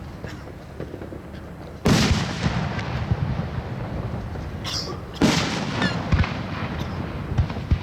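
Fireworks shells bursting overhead: two loud booms, about two seconds in and again about three seconds later, each trailing off in a rolling rumble, with a run of sharp crackles after the second.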